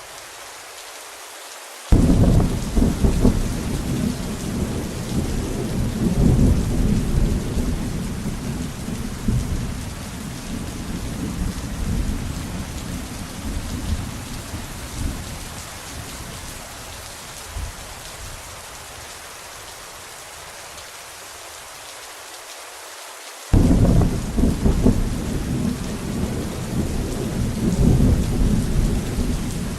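Thunderstorm: steady rain hiss, broken about two seconds in by a sudden thunderclap that rumbles and slowly dies away over some twenty seconds, then a second sudden crack of thunder near the end that goes on rumbling.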